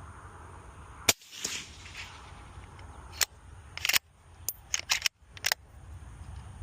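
Suppressed rifle shots through a Diligent Defense DTF STI suppressor: a loud sharp report about a second in with a short ringing tail, then a string of shorter sharp cracks and clicks between about three and five and a half seconds in, broken by sudden cuts.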